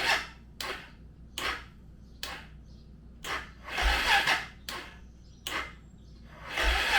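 A series of short scrapes and rustles, about eight at irregular intervals with a longer one near the middle: hands working on and around the motorcycle.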